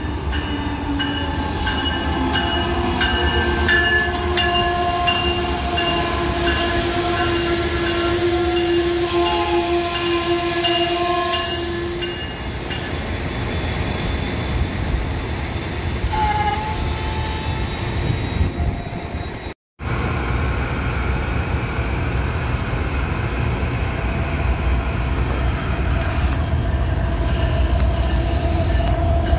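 Amtrak passenger train passing close by: steady rumble of the cars rolling past, with several held tones in the first dozen seconds. After an abrupt cut about two-thirds through, the low rumble of an approaching BNSF freight train's diesel locomotives, growing louder toward the end.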